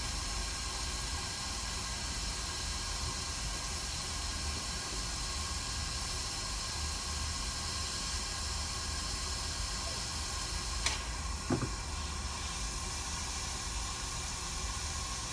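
Steady hiss of blowing air from electronics repair-bench equipment, with a sharp click about 11 seconds in and a short low knock just after it.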